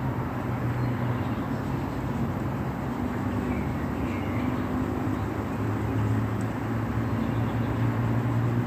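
Steady expressway traffic noise, a continuous hiss of tyres with a low engine hum, heard in light rain.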